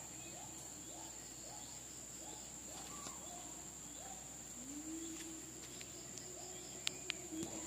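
Steady high-pitched drone of insects such as crickets or cicadas, with short rising calls repeating about twice a second in the first half. A lower held tone starts about halfway through, and a few sharp clicks come near the end.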